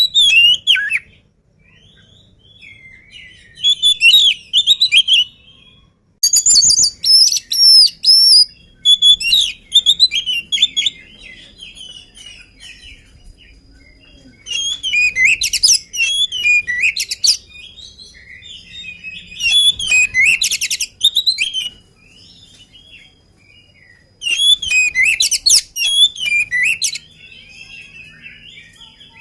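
Oriental magpie-robin singing loudly in bursts of one to three seconds. Its varied phrases of whistles and rapid chattering notes are separated by short pauses. This is the vigorous 'gacor' song of an active bird that has not yet been fed.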